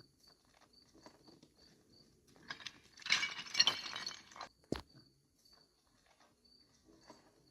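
Footsteps crunching and clattering over gravel and loose rock in a burst about three seconds in, with a sharp click just after. An insect chirps faintly in even pulses throughout.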